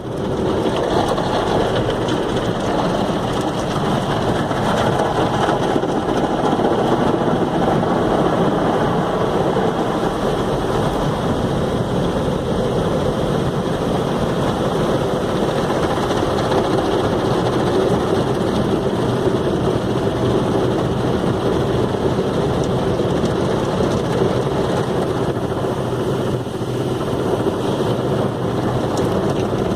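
Steady loud rushing of car wash water spray, with machinery running under it, holding even throughout.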